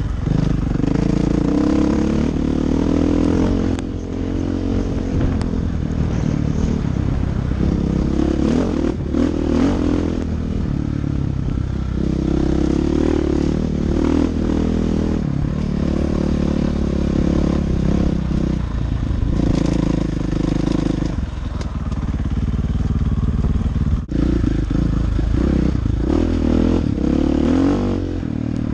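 Dirt bike engine running on a trail ride, the revs rising and falling again and again as the throttle opens and closes, with clattering from the bike over rough ground.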